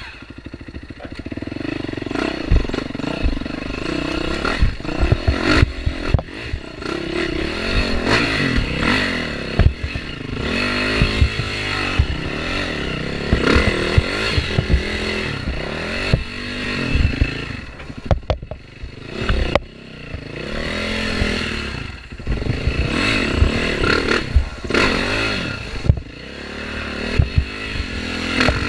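Dirt bike engine being ridden off-road, its revs rising and falling again and again, with knocks and rattles as the bike goes over rough ground.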